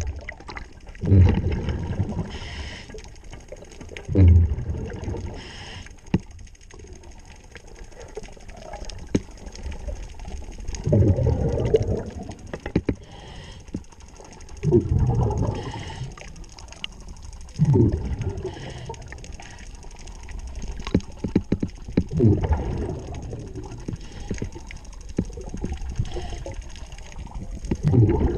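Scuba diver's exhaled bubbles rushing from the regulator in surges every few seconds, heard underwater, with faint clicks in between.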